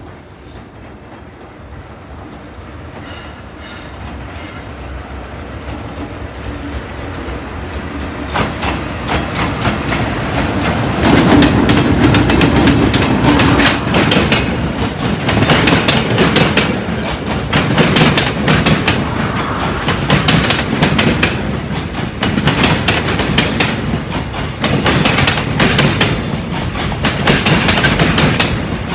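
Freight train hauled by an EH500 electric locomotive approaching, growing steadily louder over about ten seconds, then rolling past close by with rapid clickety-clack of the wagons' wheels over the rail joints.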